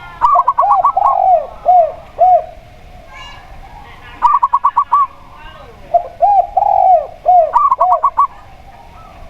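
Zebra dove and spotted dove calling together: three phrases, each a quick run of short clipped notes overlapping a few lower, rounded coos.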